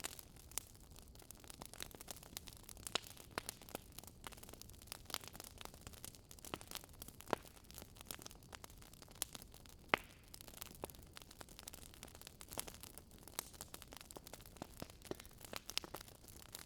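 Faint wood fire crackling and popping: irregular sharp snaps over a soft hiss, a few louder pops among them.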